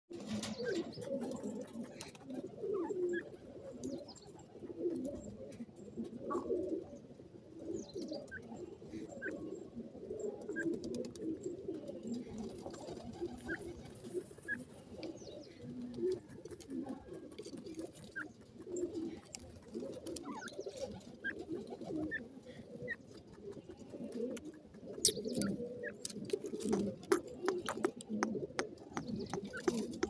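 Low-pitched bird calls warbling continuously and overlapping, with occasional short higher chirps. From about 25 seconds in, a run of quick clicks and scratches comes in.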